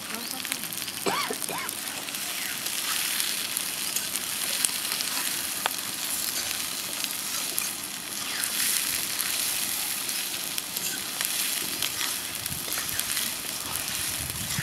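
Food frying in hot oil in a cooking pan, a steady crackling sizzle, stirred now and then, with a few sharp clicks.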